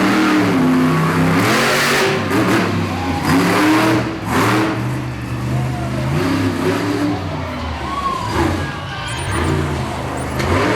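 Monster truck engine revving hard, its pitch rising and falling repeatedly as the throttle is worked.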